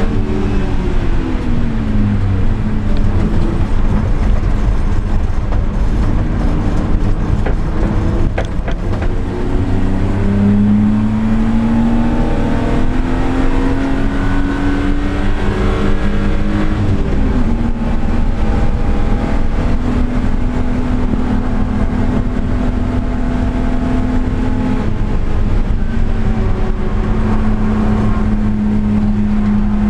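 Car engine and exhaust under way at speed, the revs falling over the first couple of seconds, climbing from about ten seconds in, dropping at around seventeen seconds, then holding steady.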